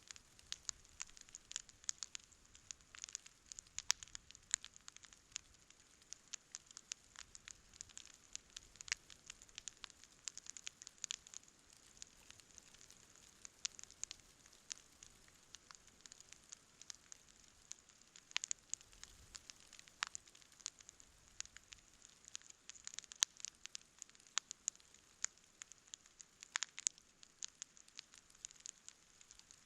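Campfire burning and crackling: irregular sharp pops and snaps, a few louder than the rest, over a faint steady hiss.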